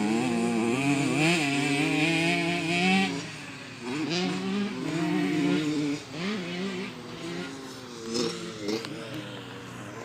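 Motocross bike engine revving up and down, loudest for the first three seconds, then quieter with several shorter bursts of throttle.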